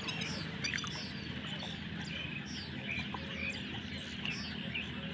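Small birds chirping, many short falling chirps a second, over a steady low hum.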